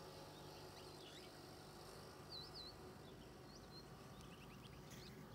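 Near silence with faint bird chirps: scattered short high notes, a quick double chirp about halfway through and a run of short falling notes near the end.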